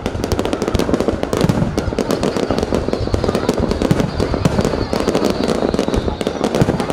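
Fireworks display going off: a dense, continuous run of sharp crackles over a steady low rumble from bursting shells.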